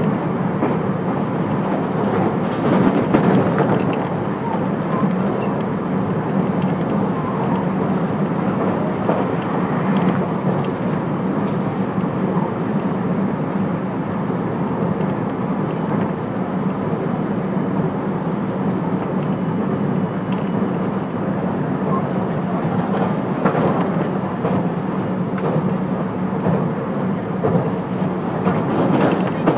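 Running noise inside a JR West 223 series 5000 electric multiple unit at speed: a steady rumble of wheels on rail, swelling briefly about three seconds in and again near 23 seconds.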